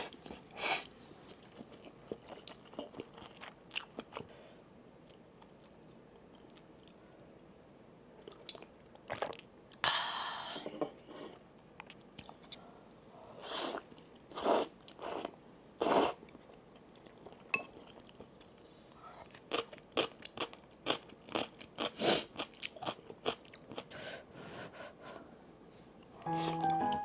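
Close-up eating sounds: crunchy bites and chewing, coming in irregular spells with quiet gaps between.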